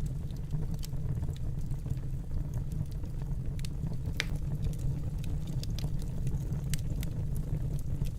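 Wood fire burning in a fireplace: a steady low rumble of flames with scattered sharp crackles and pops, one louder pop about four seconds in.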